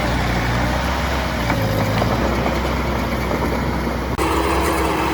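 Heavy diesel engine of earthmoving machinery running steadily. About four seconds in, the sound changes abruptly to another engine sound carrying a steady tone.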